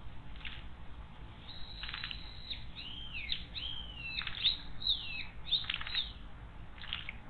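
A small wild bird calling: one held high note, then a quick run of about ten short sweeping chirps, some falling and some rising, over a few seconds, with a last short call near the end.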